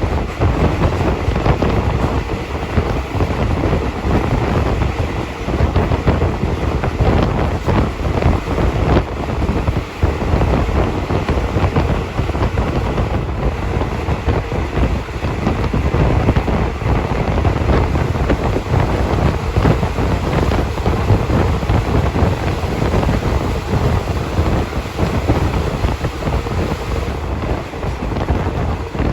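Passenger train running at speed: a steady rumble from the train with heavy wind buffeting the phone's microphone.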